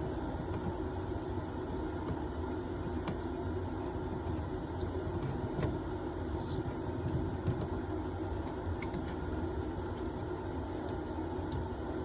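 A few faint metallic clicks of a small wrench working a toilet supply valve's compression nut, over a steady low hum.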